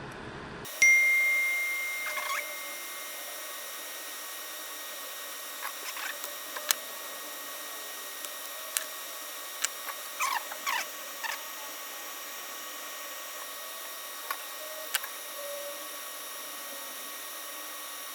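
A sharp snap with a short metallic ring about a second in, typical of a spring-loaded solder sucker's plunger firing. After it come scattered light clicks and a few short squeaky scrapes of tools working the component's leads on the circuit board.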